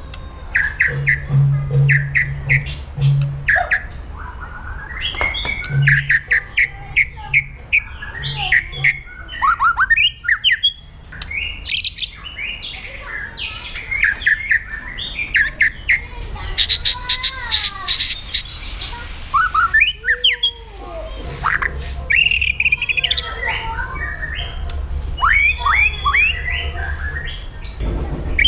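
White-rumped shama singing a long, fast, varied song of rapid sharp notes, whistled glides and harsh squawking calls.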